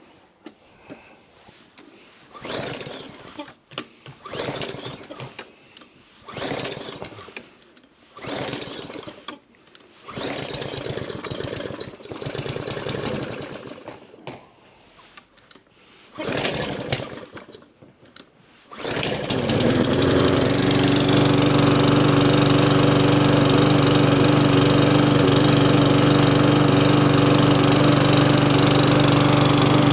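Briggs & Stratton 450E single-cylinder lawnmower engine being pull-started: about ten short cranking bursts a second or two apart, then it catches about 19 seconds in and runs steadily. This is its first start after the carburettor was taken off and emptied.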